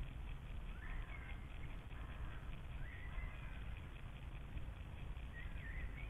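Faint bird calls: about four short phrases that sweep upward and then level off, over a steady low rumble.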